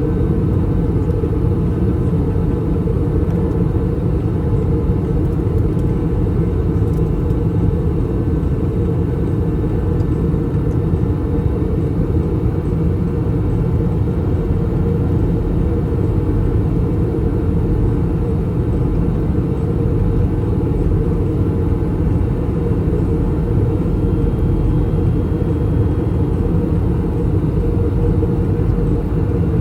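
Steady low rumble of airflow and engine noise heard inside the cabin of an Airbus A321 airliner in descent, with a faint steady hum above it.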